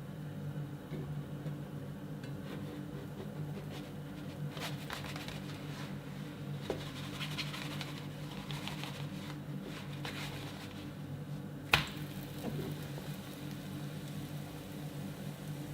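Light scraping and clicking handling noises over a steady low hum, with one sharp click near the end.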